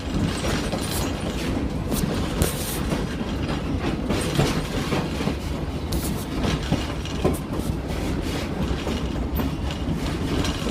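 Passenger train running along the track, heard from aboard: a steady low rumble with irregular clacks of the wheels over the rails.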